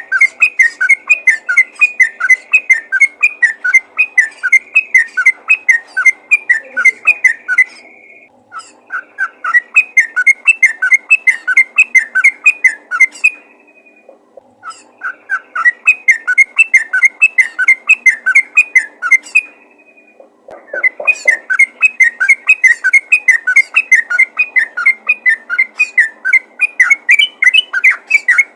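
Yellow-vented bulbul (trucukan) singing fast, rolling runs of repeated whistled notes, about six a second, broken by short pauses about 8, 14 and 20 seconds in. It is a vigorous call that draws in other yellow-vented bulbuls.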